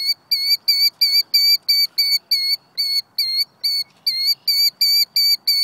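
A bird calling in a fast run of identical short, sharp notes, about four or five a second, with a brief break about halfway: repeated alarm calls of a bird defending its nest.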